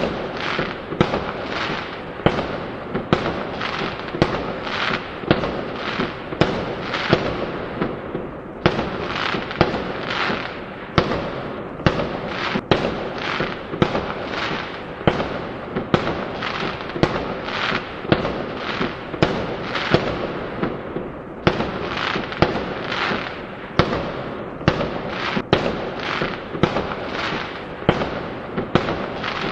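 Fireworks going off in a rapid, continuous barrage: sharp bangs nearly twice a second, each trailing off in a hiss.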